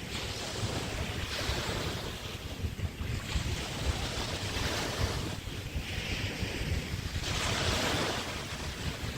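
Small bay waves washing onto a beach: several surging washes of hiss a few seconds apart. Wind rumbles on the microphone throughout.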